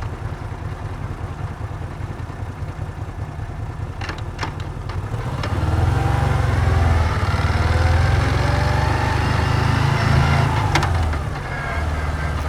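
Moto Guzzi V7's air-cooled transverse V-twin ticking over at low revs, with a few sharp clicks, then pulling away about halfway through, its pitch rising steadily under throttle before easing off near the end.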